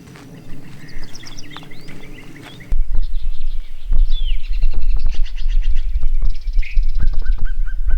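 Several small birds chirping, with quick trills and short sliding calls. About three seconds in, a loud low rumble cuts in suddenly and stays under the birdsong.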